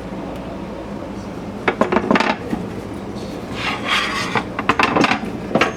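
A few knocks and clatters with some rubbing or scraping, as of something being handled, over a steady low hum.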